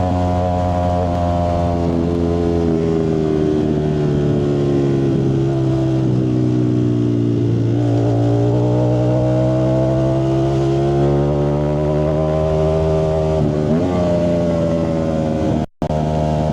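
Ducati Streetfighter V4S's V4 engine running through a Zard exhaust, a steady loud note whose pitch sinks slowly to a low point about halfway through and then climbs back up. The sound cuts out for a split second near the end.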